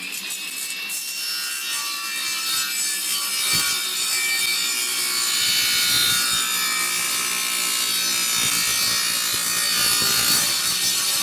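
Table saw with a dull, unsharpened 40-tooth Mastercraft carbide blade cutting through hardwood, a steady sawing sound with a high ringing tone. The blade is dull and burning the wood as it cuts.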